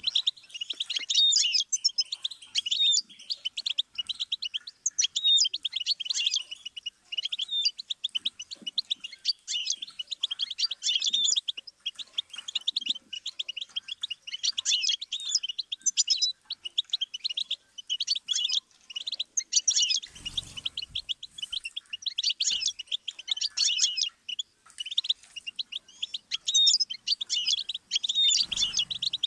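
Goldfinch singing: fast, continuous twittering song of rapid chirps and trills, delivered in phrases of a second or two with brief pauses between them.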